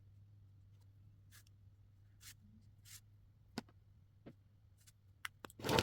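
Marker tips scratching across paper in a few short strokes, followed by several light clicks and a louder knock near the end, over a faint steady low hum.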